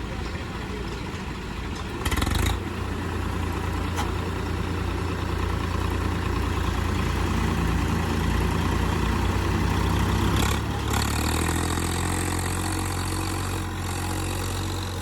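Diesel tractor engines pulling hard against each other in a tug-of-war. The engine noise jumps louder about two seconds in, holds steady under load, and eases off somewhat after about ten seconds.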